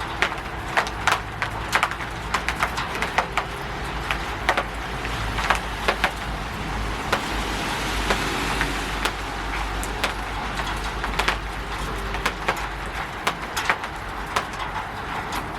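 Rain falling on a roof: a steady hiss of rain with many sharp, irregular drip taps, over a low rumble.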